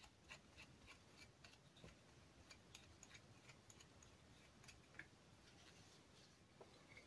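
Near silence with faint, scattered small clicks and light taps at an irregular pace, as of small parts being handled.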